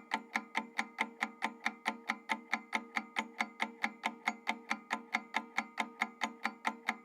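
Clock ticking sound effect, a steady fast tick-tock at about four ticks a second, over a steady low tone.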